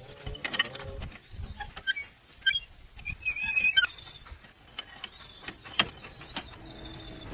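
Scattered light clicks and knocks, with a brief high warbling chirp about three and a half seconds in.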